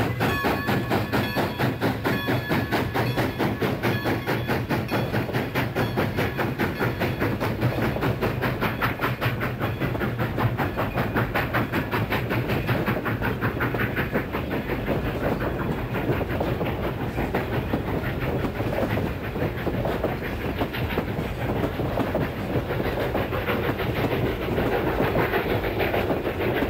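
Passenger train running past with a steady, rapid rhythmic clatter of wheels on the rails.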